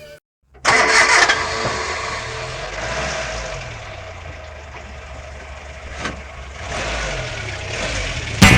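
Car engine starting abruptly about a second in and then running noisily, the level easing off in the middle. There is a single sharp knock about six seconds in, and the engine picks up again near the end.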